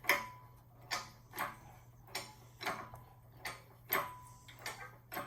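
Engine hoist being worked to lift an engine out of a car: a regular ratcheting click, about one to two clicks a second.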